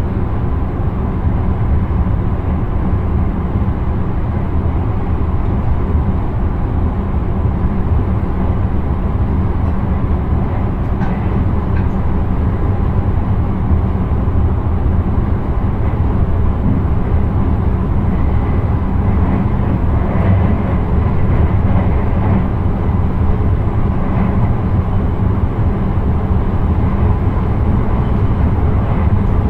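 Intercity train running along the line, heard from inside the driver's cab: a steady low rumble of wheels on rail and running gear.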